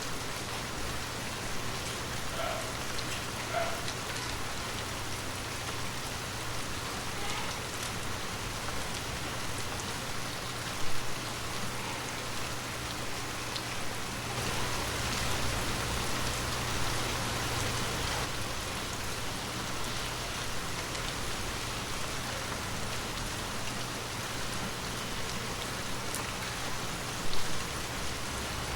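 Heavy rain falling steadily, an even hiss of drops that swells slightly in the middle. Two sharp, louder hits stand out, about a third of the way in and near the end.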